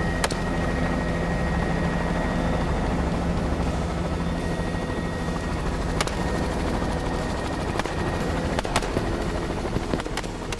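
Helicopter running steadily with a constant drone, with a few sharp cracks over it.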